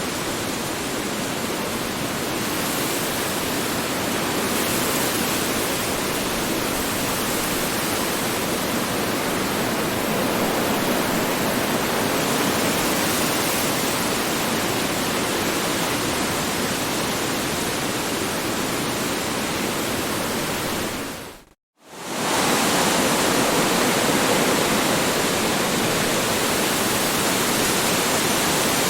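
Strong wind blowing as a steady, full rushing noise. About three-quarters of the way through it fades out to silence for a split second, then swells straight back, like the seam of a looped recording.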